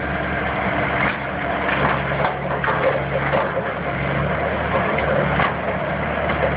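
Engine of heavy demolition machinery running steadily, with scattered cracks and crunches of material being broken.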